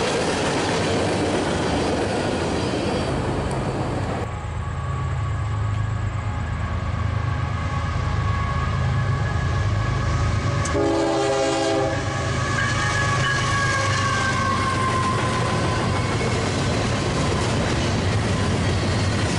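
Freight cars rolling past with wheel clatter, then a diesel locomotive's steady low engine rumble. About eleven seconds in comes a short multi-tone horn blast lasting about a second. Double-stack container cars then roll by with a wavering wheel squeal.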